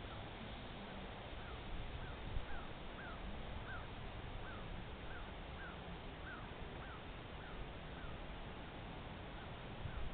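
A bird calling over and over: short high notes about two a second for several seconds, over a steady hiss and low rumble.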